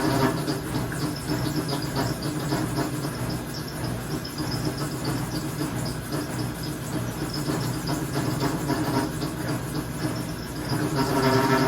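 Maytag MVWP575GW top-load washing machine running with a steady mechanical hum and rumble that grows louder near the end. It is an abnormal noise that this new washer began making on a load of sheets, and taking out part of the load did not stop it.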